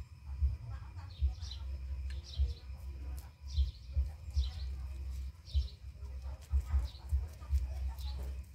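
Small birds chirping over and over, a short high chirp about once or twice a second, against irregular low thumps and rumble. Faint crisp clicks of rabbits chewing greens sound through it.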